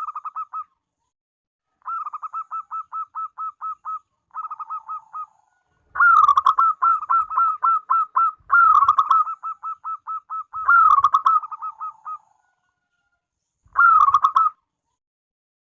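Zebra dove (perkutut) cooing in bouts of rapid, rolling repeated notes, with short pauses between bouts. The first bouts are quieter, and the long bouts from about six seconds in are louder.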